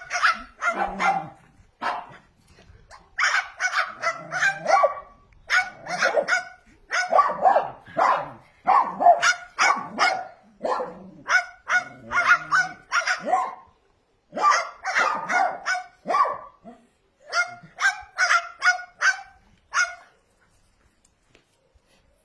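Cockatoo imitating a dog's barking: quick runs of short, sharp barks in groups of several, which stop shortly before the end.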